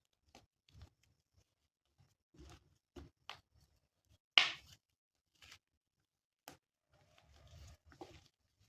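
Scattered small taps, clicks and rustles of close-up hand handling, with one sharp, much louder click about four and a half seconds in.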